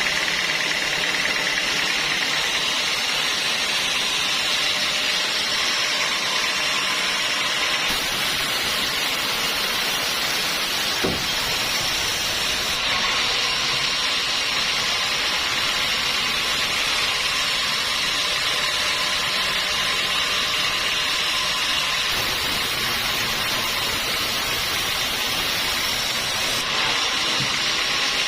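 Sawmill saw running steadily, a continuous loud mechanical noise with a high hiss and a few steady tones. There is one short click about eleven seconds in.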